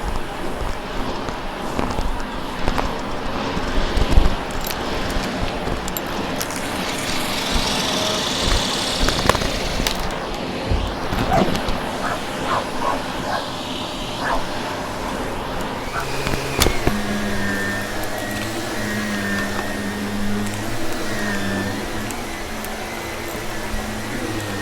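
Rushing, crackling noise of debris with scattered clicks and ticks. About two-thirds of the way in, a vacuum cleaner's motor settles into a steady hum.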